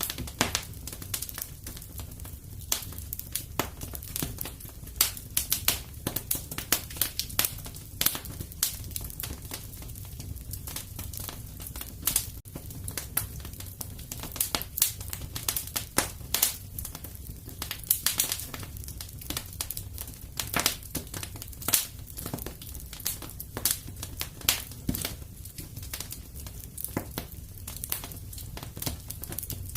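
Wood fire crackling: a dense, irregular stream of pops and snaps over a steady low rumble of the flames.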